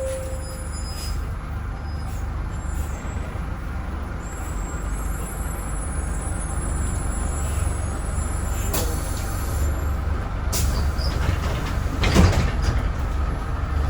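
Volvo B10M bus's underfloor straight-six diesel engine running with a steady low rumble, with a few short hisses of air, the loudest about twelve seconds in.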